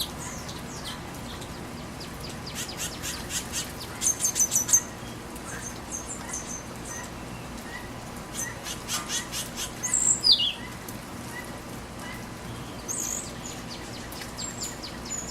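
Birds chirping and calling in quick runs of sharp, high notes, with the loudest string about four seconds in and a single falling call a little past the middle. A steady rain hiss runs underneath.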